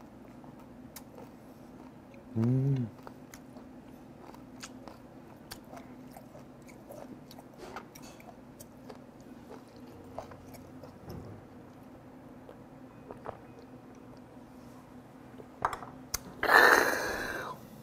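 A man chewing fermented skate (hongeo), with soft wet mouth clicks and a short hummed grunt a couple of seconds in. Near the end comes a loud, breathy exhale lasting about a second, a reaction to the pungent bite.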